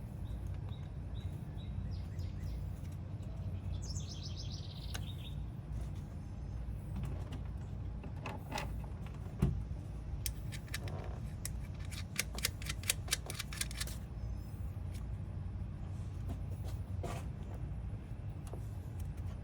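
Low steady rumble of a 2020 Toyota Sienna's engine running. Birds chirp a few times in the first five seconds, and a quick run of clicks comes about twelve seconds in.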